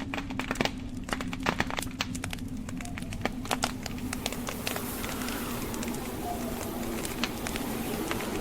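Wood fire crackling with many sharp pops, over the steady low rumble of blizzard wind; a higher hiss of wind swells up about halfway through.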